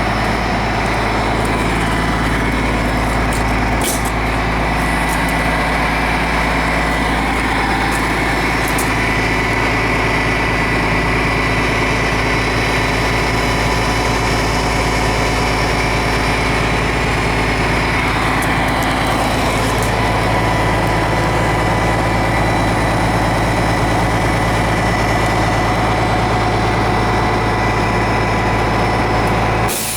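Cummins ISM turbo diesel of a 2003 Blue Bird LTC-40 coach idling steadily.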